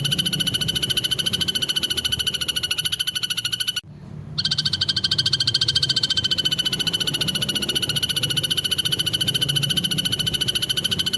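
An animal's harsh, rapid pulsed trill held on one steady pitch, breaking off briefly about four seconds in and then going on again.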